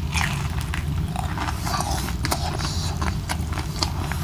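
Close-up chewing and crunching of crispy fried milkfish (daing na bangus), with many quick, irregular sharp crackles.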